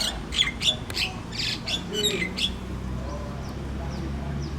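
Birds squawking and chirping in a rapid run of sharp, high calls for the first two and a half seconds, then fainter short falling chirps, over a steady low rumble.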